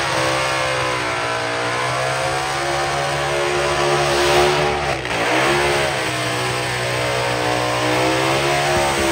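Burnout car's engine held at high revs during a skid, the revs dipping briefly about halfway through and climbing back, over a steady hiss of tyre noise.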